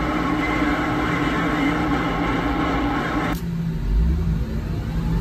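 CB radio speaker putting out a steady rush of static with faint steady tones from an open signal, cutting off abruptly about three and a half seconds in. A low rumble runs underneath throughout.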